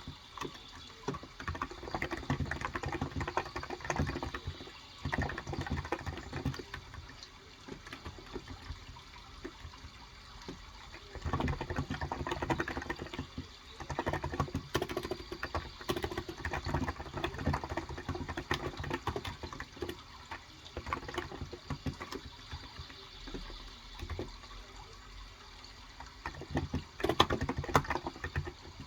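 Typing on a Cox Endeavor electrostatic capacitive keyboard with 35 g switches, keys struck in quick flurries with short pauses, over a steady running-water sound.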